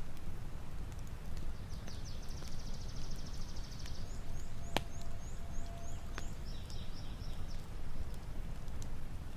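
Small songbirds singing high up: a fast trill, then a run of about seven short repeated notes, then another trill, over a steady low rumble of outdoor noise. Two sharp clicks sound near the middle.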